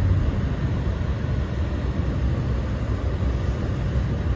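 Steady low rumble inside the cab of a lifted Toyota Tacoma driving in four-wheel drive through snow: engine and 34-inch all-terrain tires on the snowy road.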